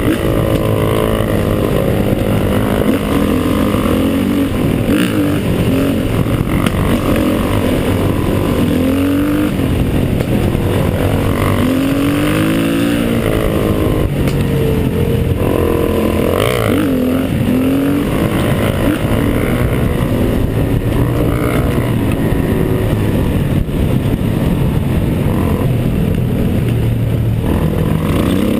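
Trail motorcycle engine running hard on a climb, its pitch rising and falling repeatedly as the throttle opens and closes and gears change.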